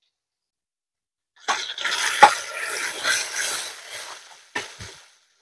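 Ground masala paste and vegetables sizzling in hot oil in a kadai as a spatula stirs them. It starts about a second and a half in, with a sharp clink of the spatula on the pan a little later, and fades out toward the end with one short knock.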